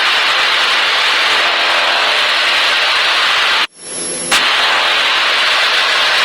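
Cessna 152's engine and propeller running steadily in flight, heard inside the cabin as a loud, even drone with wind hiss. About three and a half seconds in, the noise cuts out abruptly for just over half a second and comes back with a click.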